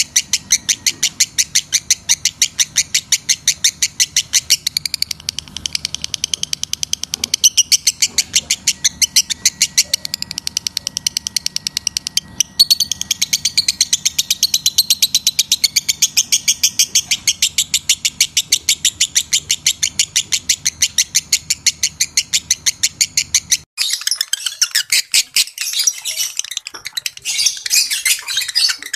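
Lovebird chattering: a fast, steady run of high, sharp chirps, several a second. A little before the end the sound switches abruptly to denser, more jumbled twittering.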